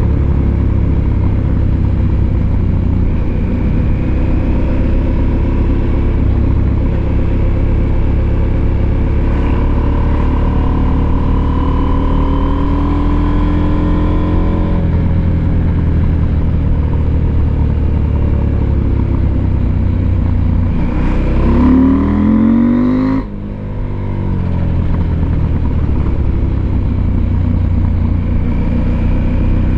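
Husqvarna Norden 901's parallel-twin engine pulling under way, its note rising and falling with the revs. About 21 seconds in the revs climb steeply, then cut off suddenly about 23 seconds in, as at a throttle close or gear change, before the engine pulls again.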